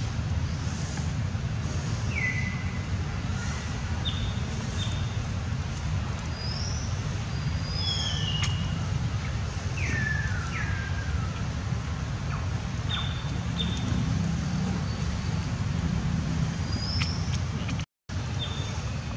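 Outdoor ambience: a steady low rumble, with short falling bird chirps now and then, about a dozen in all. The sound cuts out for a moment near the end.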